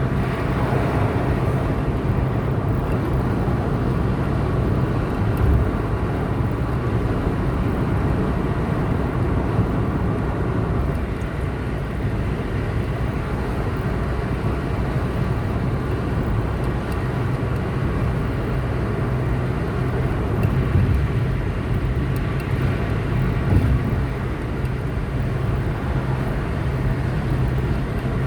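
Car driving at a steady speed: continuous engine drone and road noise that holds even throughout.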